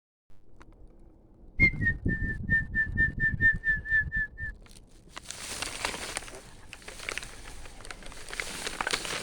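A person whistling to call birds: a quick run of about a dozen short, same-pitched whistle notes, roughly four a second. From about five seconds in, a steady crinkling rustle follows.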